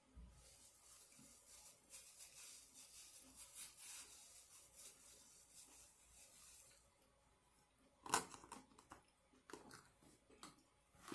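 Quiet eating and food-handling noises: a few seconds of faint crinkling and rustling, then a sharp crunch about eight seconds in, followed by scattered small clicks.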